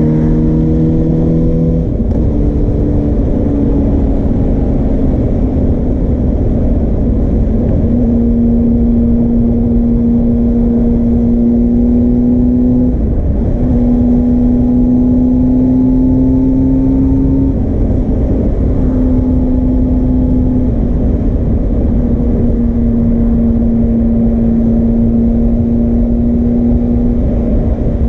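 Suzuki GSR400's inline-four engine running through a Yoshimura Cyclone Tri-Oval exhaust, held at a fairly steady engine speed. The note creeps slowly up and dips briefly a few times.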